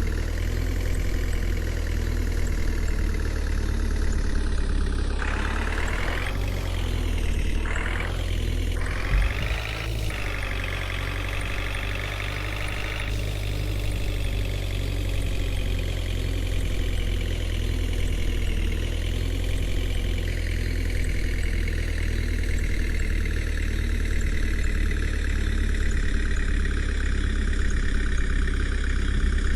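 Tractor diesel engine running steadily, with its pitch rising and falling several times between about five and thirteen seconds in, as if revved or working under load.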